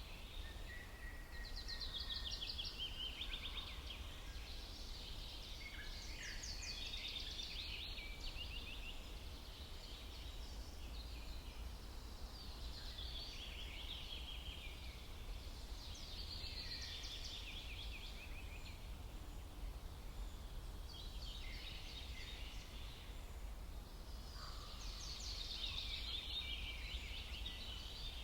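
Songbirds singing in a forest: short phrases of rapid trilled and chirping notes come every four to five seconds, over a steady low rumble.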